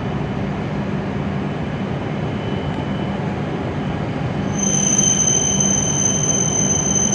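W7 series Shinkansen train pulling into the platform and slowing, a steady rumble of wheels and running gear. About two-thirds of the way through, a high steady whine sets in over the rumble.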